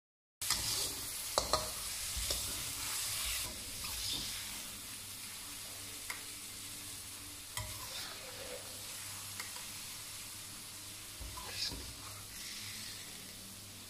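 Sliced mushrooms sizzling in a hot wok, the sizzle loudest at first and fading, while a metal spatula stirs and scoops them, clicking and scraping against the pan a handful of times.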